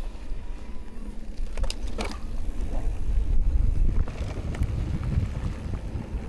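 Wind buffeting the microphone over the rolling rumble of an Amflow electric mountain bike riding a dirt trail, with a couple of sharp clicks about two seconds in.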